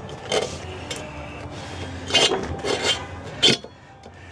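Several sharp metal clinks and knocks over rubber rubbing as a motorcycle tire is levered onto its rim with tire spoons.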